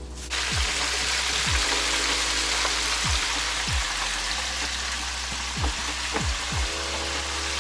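Food frying in hot oil: a steady, loud sizzle that starts suddenly just after the beginning. Under it runs background music with a deep bass line and repeated falling bass hits.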